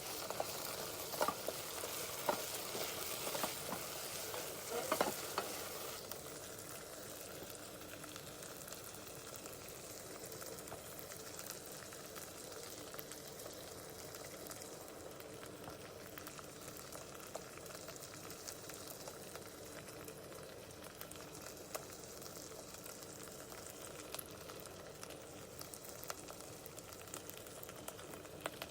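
Ginger-garlic paste frying in oil in a pan, sizzling while it is stirred. There are a few sharp knocks of the spoon against the pan in the first five seconds, then a steadier, quieter sizzle.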